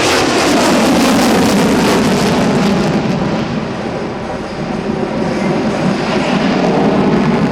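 Jet noise from an F-15E Strike Eagle's twin turbofan engines at high power: a loud, continuous rushing sound that eases about four seconds in and builds again near the end.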